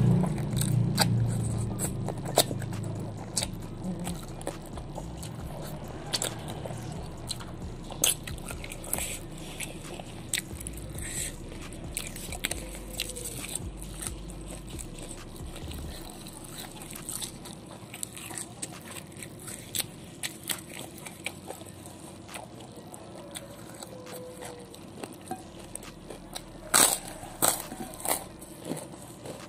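Close-up eating sounds: chewing, smacking and crunching bites of chicken feet, raw leafy greens and rice eaten by hand. Short crisp crunches come at uneven intervals, with the loudest cluster of bites near the end.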